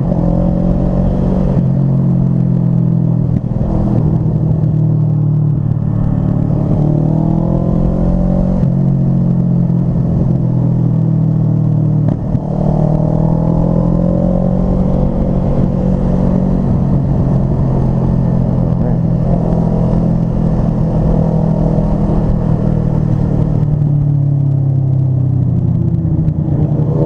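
Motorcycle engine running under way, its pitch slowly rising and falling with the throttle, with two brief dips in level, about three and twelve seconds in.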